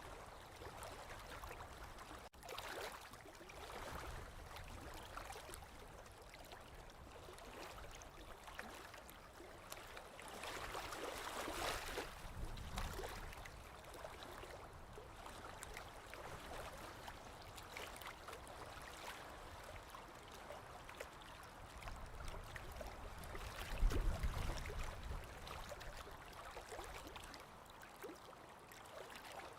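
Small lake waves lapping and washing on the shore, swelling louder for a couple of seconds partway through. A short low rumble about three-quarters of the way in is the loudest moment.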